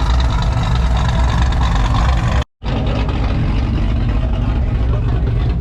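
Car engine idling loudly with a steady low note. The sound drops out completely for an instant about two and a half seconds in.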